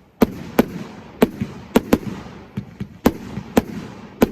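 Fireworks going off: a run of sharp bangs, about two a second, with fainter crackling between them.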